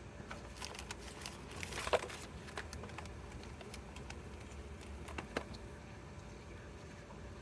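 Light clicks and metallic knocks of hand tools and brake parts being handled, the loudest knock about two seconds in and another about five seconds in, over a low steady hum.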